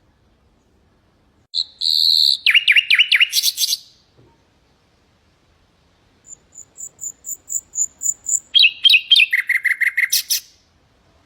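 Nightingale singing two phrases of quickly repeated notes, the first about a second and a half in and the second from about six seconds in. The second phrase opens with a run of thin high notes that speeds up.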